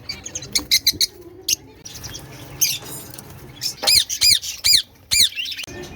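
Caged pet birds calling: quick high chirps early, then a run of about five loud squawks, each rising and falling in pitch, in the second half.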